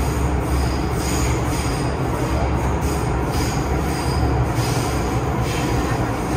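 MTR Tseung Kwan O line M-Train running along the track: a steady low rumble with a high-pitched wheel squeal that comes and goes.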